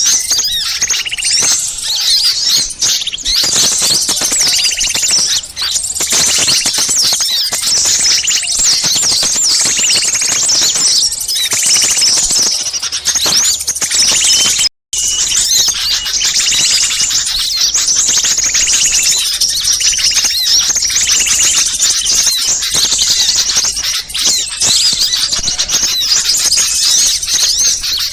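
Many small birds calling at once in a noisy, excited chorus of rapid overlapping high chirps and twitters. It is a bird-lure recording of agitated small-bird calls meant to draw wild birds in. The sound cuts out for an instant about 15 seconds in, then carries on.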